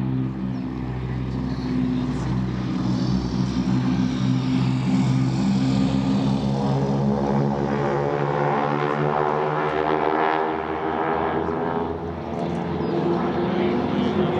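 Propeller airplane engine droning overhead. Its pitch bends and it swells about two-thirds of the way through as it passes.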